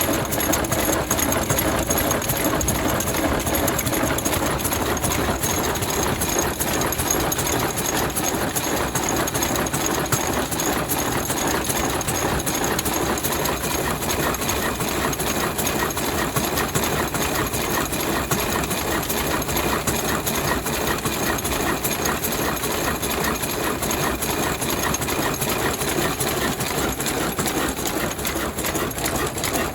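Vintage 35 hp Ruston stationary diesel engine running steadily, with a fast, even mechanical clatter.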